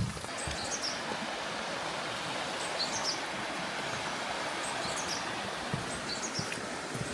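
Steady rain falling, with a bird giving short high chirps in small groups every second or two.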